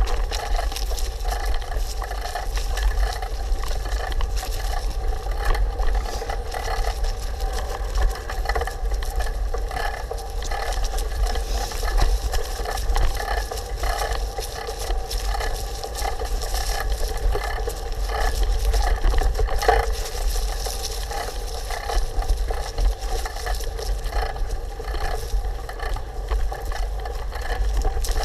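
Bicycle riding along a trail: steady tyre noise with frequent small knocks and rattles over bumps, and a deep wind rumble on the microphone.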